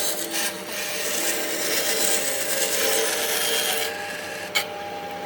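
A tool scraping steadily across wood, easing off about four seconds in, followed by a single sharp knock.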